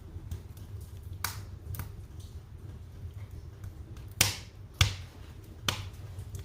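Wood fire burning in a fireplace: a steady low rumble with five sharp crackles and pops, the two loudest a little after the middle.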